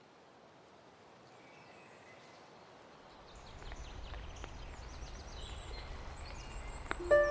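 Outdoor rain-forest ambience fading in: a steady hiss of rain with birds chirping and a low rumble from about three seconds in. Music notes begin right at the end.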